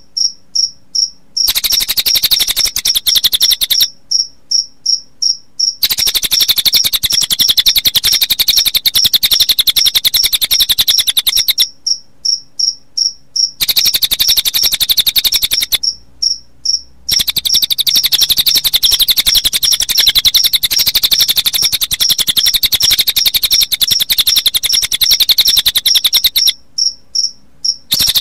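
Recorded song of a cililin bird mixed with cricket chirping: a dense, very fast, high-pitched trill of pulses. The trill breaks off four times for a second or two, leaving a few separate high pulses before it resumes.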